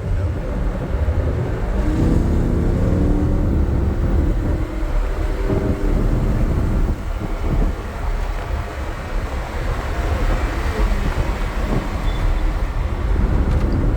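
Lamborghini Huracán V10 engine running hard on track, heard from inside the car over heavy road and wind rumble. Its pitch shifts with the revs for the first several seconds, and it eases briefly about seven seconds in.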